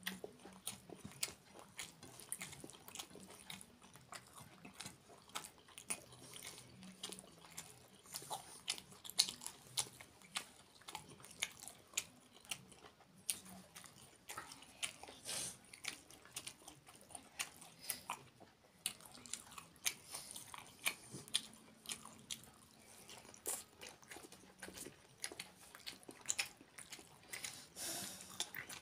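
A person eating with their hand, heard close up: chewing and mouth sounds with frequent short, irregular clicks throughout.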